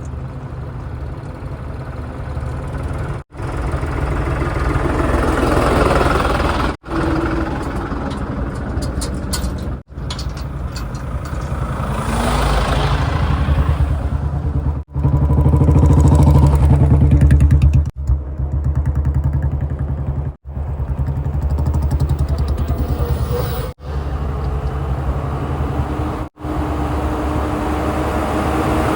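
Heavy diesel engines of a backhoe loader, tractors and tipper trucks running and revving under load. They are heard as a string of short clips that cut abruptly every few seconds.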